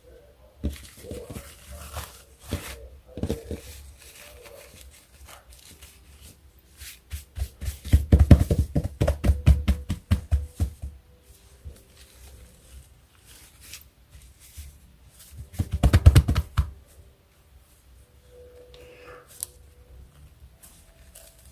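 Hands squeezing and poking slime close to the microphone, in two bursts of rapid sticky clicks about eight and sixteen seconds in, with scattered soft taps between.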